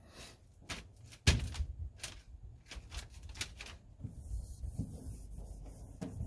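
Sound-deadening mat being handled, rubbed and pressed down by hand: a run of sharp taps and crackles, the loudest just over a second in, then steady scuffing in the last two seconds.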